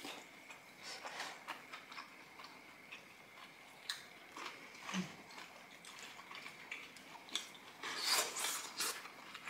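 Close-miked chewing of spicy stir-fried pork wrapped in cabbage leaves: two people eating, with soft wet smacks and clicks and a louder stretch of chewing near the end.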